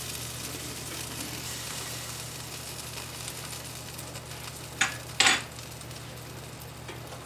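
Bone-in pork loin sizzling on the hot Ninja Foodi Grill: a steady hiss over a low hum, with two short sharp clatters about five seconds in.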